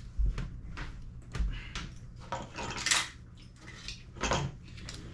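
Small metal airsoft gun parts clinking and clattering as they are handled and set down on a workbench: a string of light separate clicks and knocks, the loudest about three seconds in.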